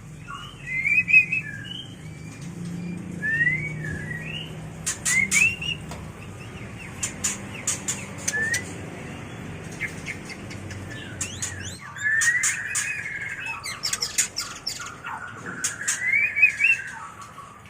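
White-rumped shama (murai batu) mating song: a run of varied whistled phrases that rise and fall, mixed with many sharp clicking notes.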